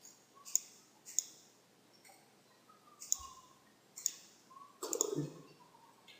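Computer mouse clicking: scattered single clicks, about half a dozen, a second or so apart, with a short cluster near the end.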